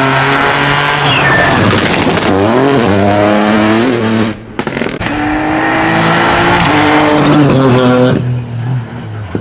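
Rally car engine accelerating hard, revs climbing through the gears, with a brief lift off the throttle about halfway through before it pulls again, then the sound drops away near the end as the car goes by.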